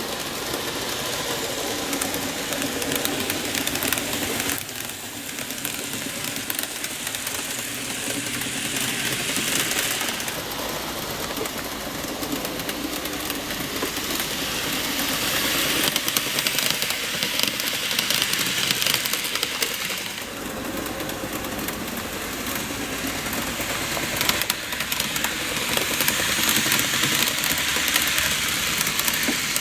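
N gauge model train running on its track on a test run of its freshly serviced powered car: a small electric motor whirs and the wheels click steadily, growing louder and fainter in turn as the train moves along the layout.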